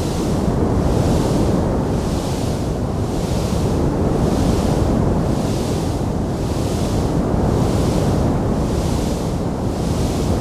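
Wood fire burning in a fireplace: a steady rushing, low rumbling sound with a hiss that swells and fades about once a second, and no distinct crackles standing out.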